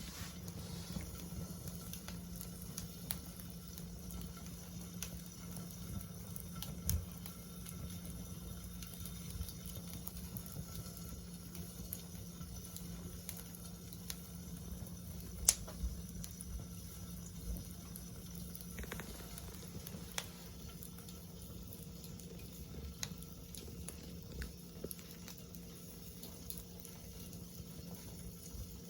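Wood fire burning in a fire pit, with a steady soft hiss and scattered crackles and pops. One sharp pop stands out about halfway through.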